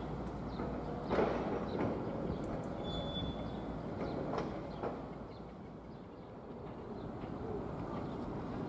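Faint rumble of a train approaching from a distance, with a few short knocks and bird calls over it.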